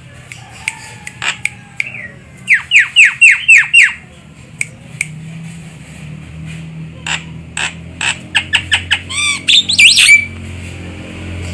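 Javan myna (jalak kebo) calling: a run of about six quick descending squawks, sharp clicks, then a rapid chattering series ending in a warbled, whistled phrase near the end.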